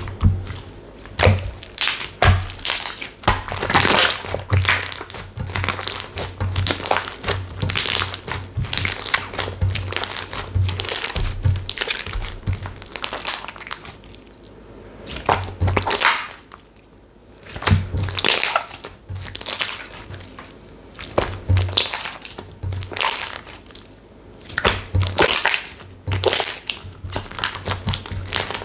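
Textured slime being squeezed, poked and stretched by hand, giving dense irregular crackling pops and clicks with soft low thumps, easing off briefly a little past halfway.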